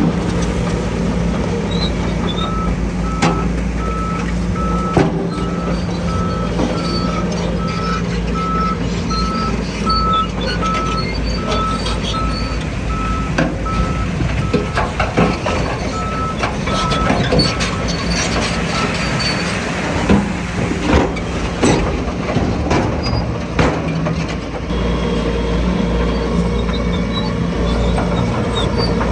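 A diesel engine running steadily with a reversing alarm beeping at an even pace for most of the first two-thirds, then stopping. Scattered knocks and clanks are heard through the middle and later part.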